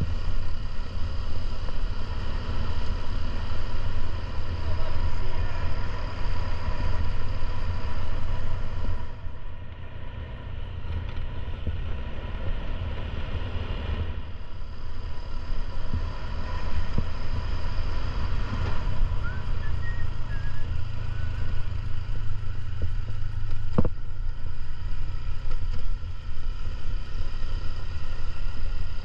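Motorcycle engine running and road noise while riding, with a steady low rumble; it eases off about a third of the way in, then picks up again. A single sharp click comes near the end.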